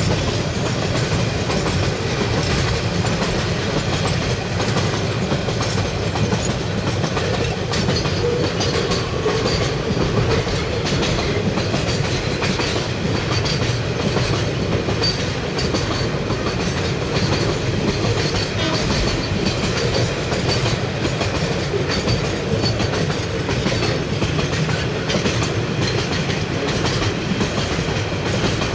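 Container freight train wagons rolling past close by: a steady rumble of steel wheels on the rails with a continuous rhythmic clatter over the rail joints.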